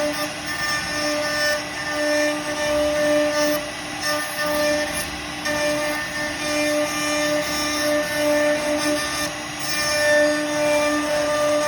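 CNC router spindle running steadily while cutting wood, a continuous high whine with the rush of the cut.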